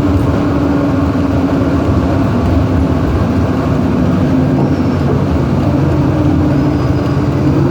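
Bus cabin noise: the engine and road drone run steadily, with a low hum whose pitch shifts slightly as the bus drives.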